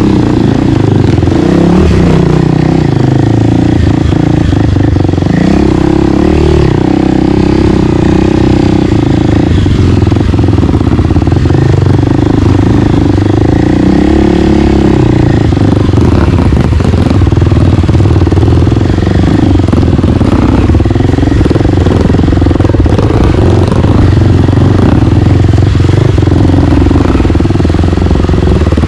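Single-cylinder four-stroke dirt bike engine running loud and continuously while riding a trail, its revs rising and falling as the throttle is worked.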